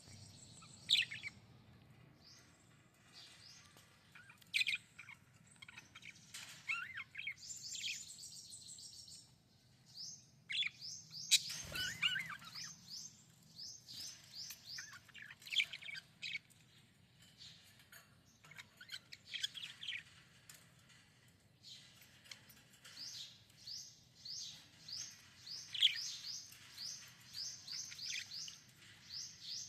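Budgerigar chirping and chattering, with runs of quick repeated high chirps, and a sharp knock near the middle.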